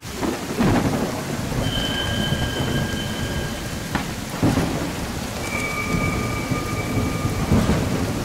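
Heavy rain pouring in a thunderstorm, with thunder rumbling and cracking a few times. Thin, faint held whistling tones come and go twice over the storm.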